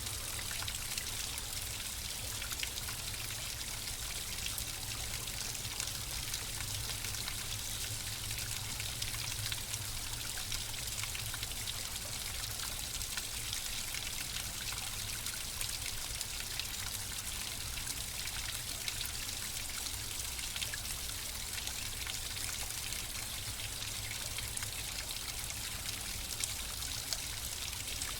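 Water flowing and trickling steadily, a continuous splashing hiss with small droplet splashes, over a steady low rumble.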